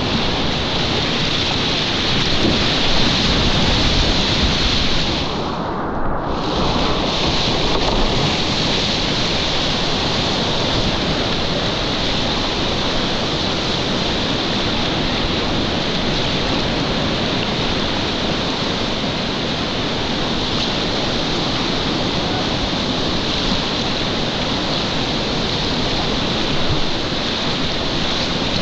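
Steady rush of whitewater from river rapids, briefly muffled about six seconds in.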